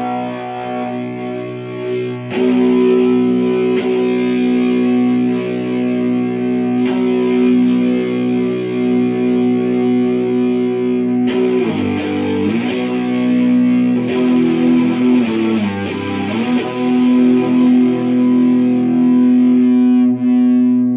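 Electric guitar played through an HM-5 distortion pedal, a copy of the Boss HM-2 Heavy Metal: heavily distorted chords struck several times and left to ring, with notes bent and wavering in pitch around the middle.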